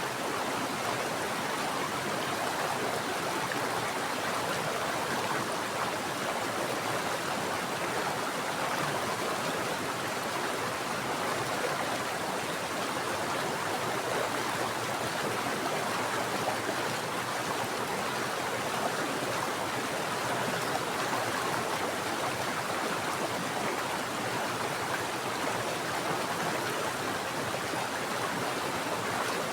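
Mountain water flowing steadily, an even unbroken rush of running water.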